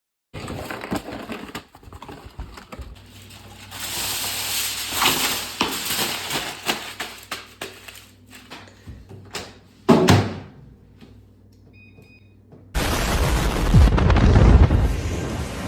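Aluminium foil arcing inside a microwave oven: crackling and sharp pops that grow denser, a heavy thump about ten seconds in, then a loud sustained explosion blast near the end.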